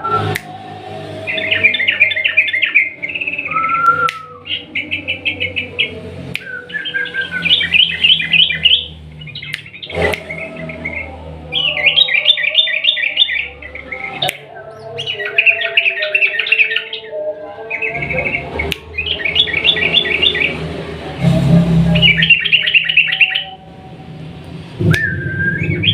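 Yellow-vented bulbul singing long runs of rapid repeated notes, burst after burst about a second long with short gaps between, and a few sharp clicks among them.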